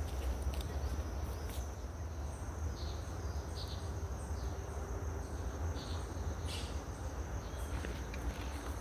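Insects, crickets or similar, trilling in one steady high note, with scattered short bird chirps, over a low steady rumble.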